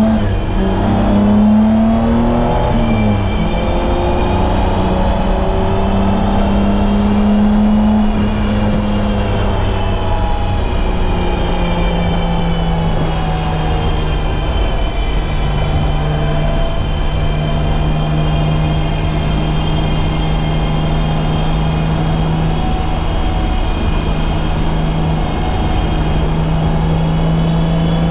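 BMW E30's M20B25 inline-six engine running on track. Its note climbs, falls sharply about three seconds in, then holds fairly steady with small rises and falls.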